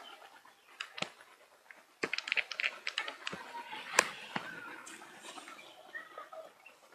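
Scattered light clicks and taps, a quick cluster about two seconds in and a sharper one about four seconds in, over faint handling noise.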